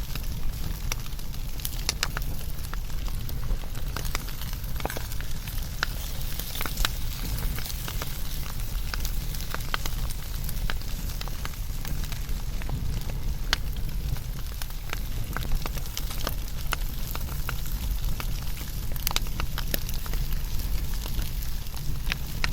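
Fire burning, with frequent irregular crackles and pops over a steady low rumble.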